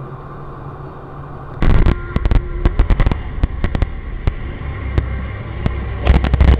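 A vehicle running steadily, then a sudden loud crash about a second and a half in, followed by a rapid, irregular series of sharp cracks and bangs typical of a road collision with breaking parts and debris. A loud, heavy rumble builds near the end.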